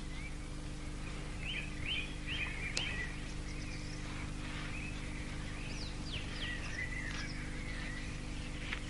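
Small birds chirping: quick short calls in two busy clusters, over a steady low hum.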